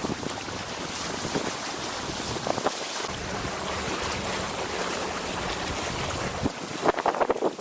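Wind rushing over the microphone and water washing along a small sailing dinghy's hull. Short clusters of splashing come about a third of the way in and again, louder, near the end.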